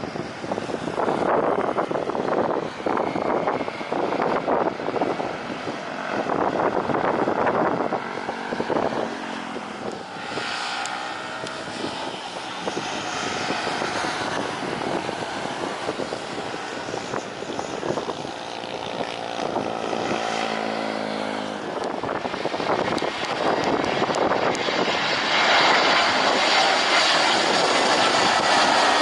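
Jet airliner engines heard from the ground. There is gusting wind on the microphone at first, then a sweeping, phasing engine roar as an aircraft passes. Near the end a louder roar with a high engine whine builds up.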